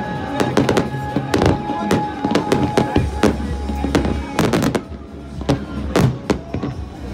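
Aerial fireworks shells bursting in a quick, irregular series of sharp bangs and crackles, thickest about four and a half seconds in, with music playing underneath.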